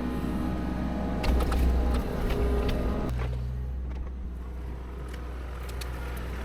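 Heavy machinery's engine running steadily, with scattered sharp clicks and cracks. About three seconds in, the busier noise above the engine drops away and the engine settles to a lower, steadier note.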